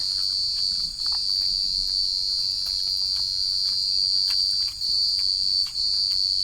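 Forest insects, crickets or similar, trilling in a loud, continuous, high-pitched chorus that breaks off for a moment a few times.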